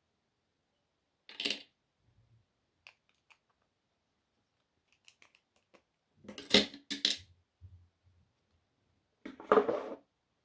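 Small metal parts being handled, clinking and clattering in short bursts: one about a second and a half in, two louder ones close together past the middle, and another near the end, with faint ticks between.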